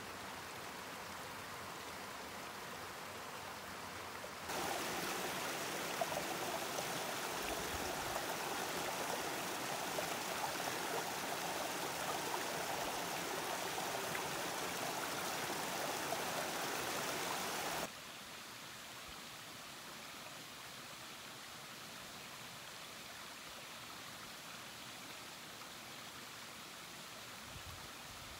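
Mountain stream flowing, a steady rush of water. It jumps suddenly louder about four seconds in and drops back just as suddenly about fourteen seconds later.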